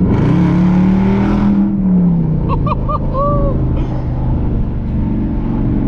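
Dodge Charger R/T's 5.7-litre Hemi V8 with its mid-mufflers deleted, floored for a short pull: the exhaust note jumps up at once and runs loud for about a second and a half, then eases off about two seconds in as the throttle is lifted.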